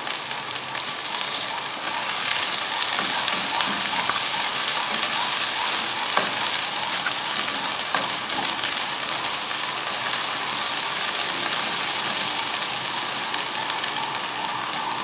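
Onion, garlic and green chilli paste sizzling in hot oil in a nonstick pan as it is fried and stirred with a perforated skimmer, with a few short scrapes of the skimmer on the pan. The sizzle grows louder about two seconds in.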